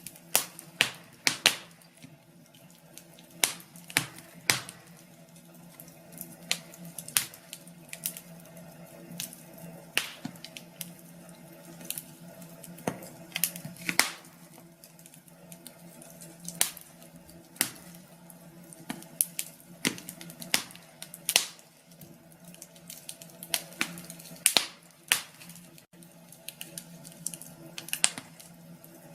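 Wood fire crackling in a fireplace: irregular sharp pops and snaps, a few a second, over a steady low hum.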